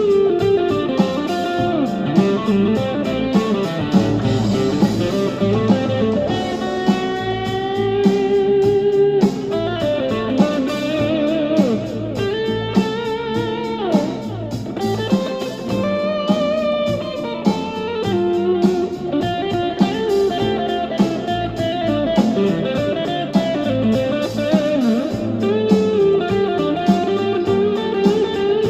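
Electric guitar playing an improvised blues solo of pentatonic lines, with string bends and slides, over a D minor blues backing track with a steady drum beat.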